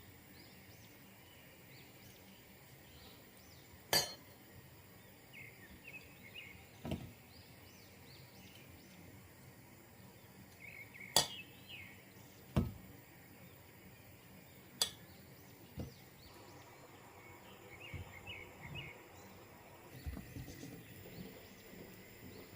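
Kitchenware clinking and knocking now and then, about six sharp separate strikes of dishes or utensils, with faint bird chirps in the background.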